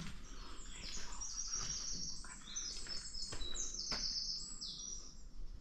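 A bird singing: a quick, continuous run of short, high chirping notes, with a couple of faint clicks about three and four seconds in.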